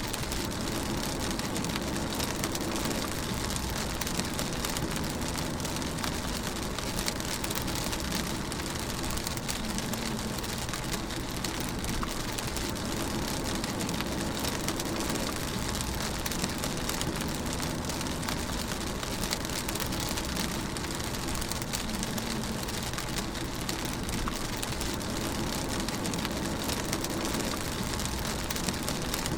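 Steady rain drumming on a car, heard from inside the cabin while driving, with a constant low rumble of the car and road underneath.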